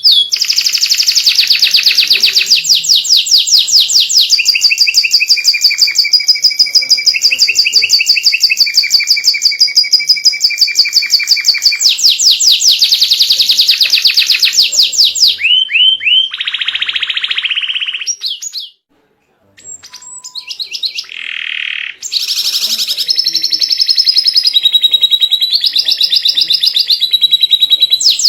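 White canary singing in full voice: long, rapid trills of fast-repeated high notes, changing from one trill to the next, with a brief break about two-thirds of the way through.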